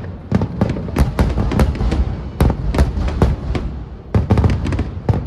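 Aerial fireworks bursting in a rapid barrage: many sharp bangs in quick succession, several a second, with a low echoing rumble between them.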